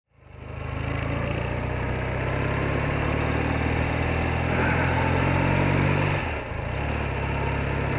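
BMW R80RT motorcycle's air-cooled flat-twin engine running steadily, fading in at the start, with a brief drop in the engine note about six seconds in.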